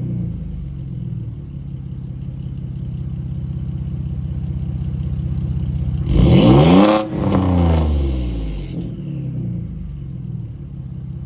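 Ford F-150's 3.5 EcoBoost twin-turbo V6 with catless downpipes and an MBRP exhaust dumped behind the axle, idling, then revved once sharply about six seconds in and falling back to a steady idle.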